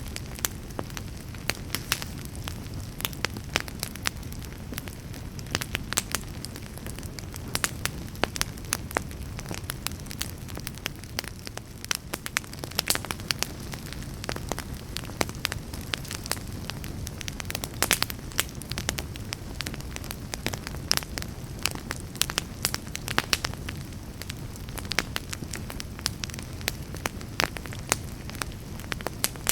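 Wood fire burning in a fireplace: a steady low roar of flames with frequent sharp crackles and pops scattered irregularly throughout.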